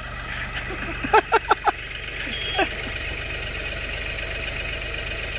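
A heavy machine's diesel engine running steadily at idle. About a second in, a person's voice breaks in with four short quick syllables, and once more shortly after.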